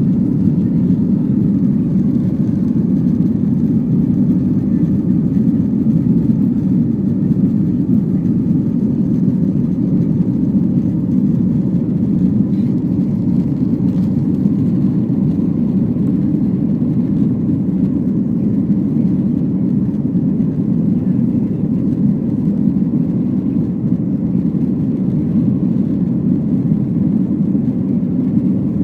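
Steady, even low rumble of a moving vehicle, holding level throughout with no change in pitch.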